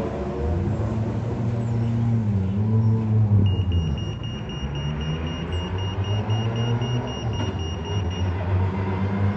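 Rally car engine running at low revs, its pitch rising and falling as it is blipped. From about three and a half seconds in, a high electronic tone pulses steadily for about five seconds alongside it.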